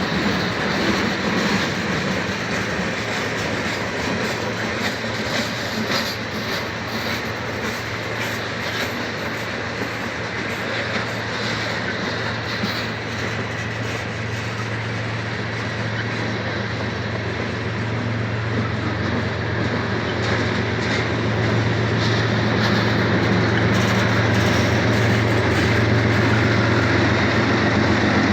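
BNSF freight train rolling along, a continuous rumble of rail cars with faint clicks from the wheels. A low steady hum grows louder over the second half.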